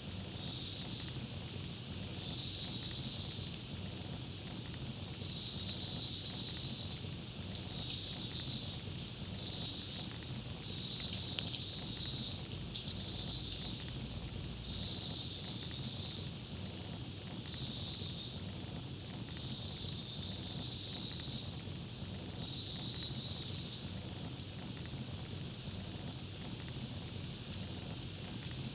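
Campfire crackling steadily with occasional sharper pops. Over it, a high trilling chirp repeats in about a dozen short bursts, stopping about two-thirds of the way through.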